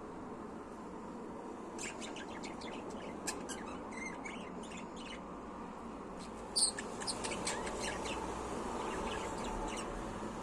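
Budgie chirping in two bouts of short, quick chirps, with a brief pause between them.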